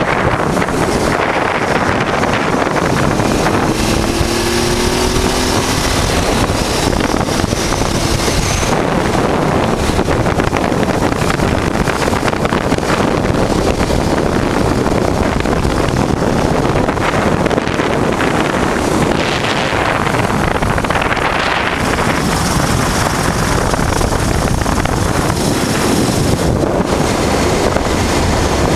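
Loud, steady wind rush over the microphone of a moving motorcycle, with the 1988 Honda Transalp's V-twin engine running underneath; the engine's pitch rises a little about four seconds in.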